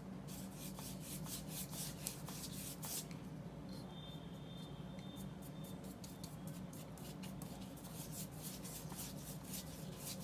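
Oil paintbrush swept back and forth across paper, spreading liquid clear over a dried black gesso coat: a run of scratchy strokes, about three a second, over a steady low hum.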